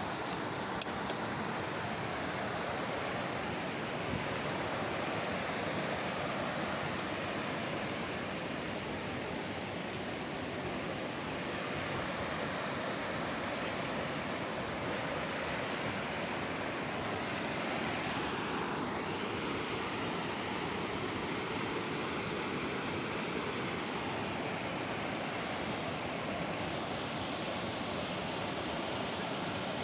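Floodwater flowing steadily, a constant rushing wash with no break.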